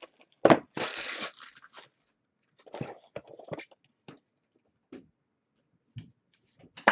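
A sharp knock, then a short tearing crinkle of a trading-card pack wrapper being ripped open, followed by scattered light taps and rustles of the cards being handled.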